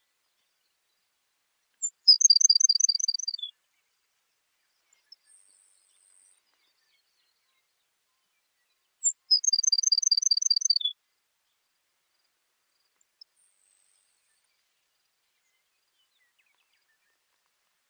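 Baird's sparrow singing twice, about seven seconds apart. Each song is a short high opening note, then a rapid trill of about eight notes, ending on a single lower note.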